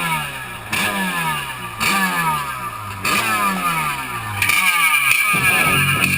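Jet ski engine being throttled in short bursts about once a second, the revs falling away after each burst, then held at a steadier high rev near the end.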